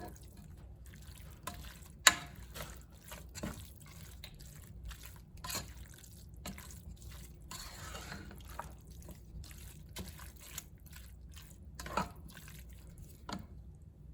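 A spoon stirring shredded chicken and salsa in a pot: wet squelching and scraping with irregular clicks of the spoon against the pot, the sharpest knock about two seconds in.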